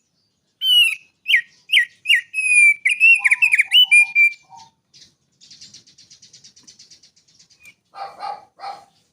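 A songbird singing a loud run of clear, short whistled notes that slide down in pitch, ending in a longer held whistle. About halfway through this gives way to a fast, thin, high trill, and near the end come a few harsher, lower notes.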